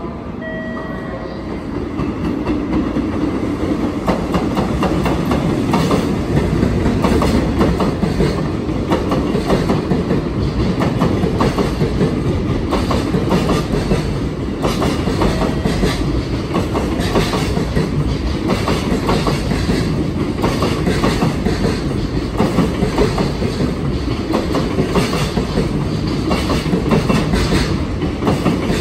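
Container freight train of an EF66 electric locomotive and eighteen Koki container flat wagons passing, its wheels clattering continuously over the rail joints. The sound swells in the first few seconds as the train arrives, then stays loud and even.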